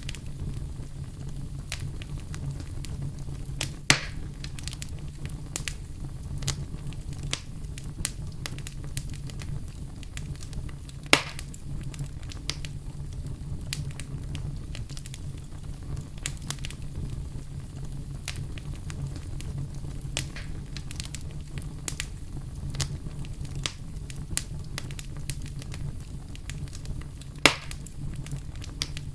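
Fire crackling in a fireplace: a steady low rumble of flames under constant small crackles, with three loud pops, about four seconds in, around eleven seconds, and near the end.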